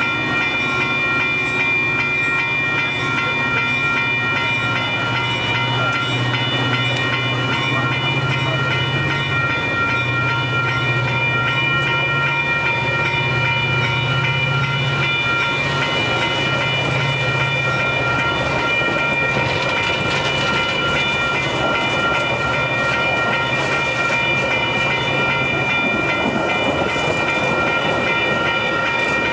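Metra commuter train of bilevel gallery cars rolling past close by, picking up speed. A steady high whine and a low rumble run throughout, and the clatter of wheels over rail joints grows louder in the second half.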